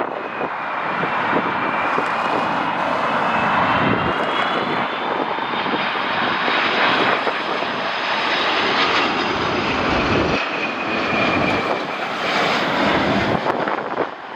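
Jet airliner passing low overhead, its engines giving a steady loud rush with high whining tones that waver in pitch.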